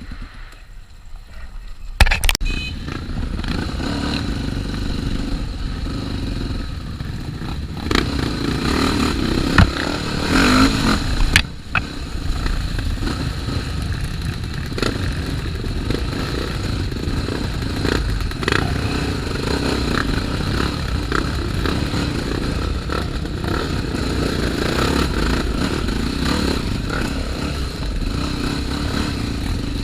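Trail motorcycle engine running under load, coming in loud about two seconds in, with sharp clattering knocks over rough ground around eight to twelve seconds in.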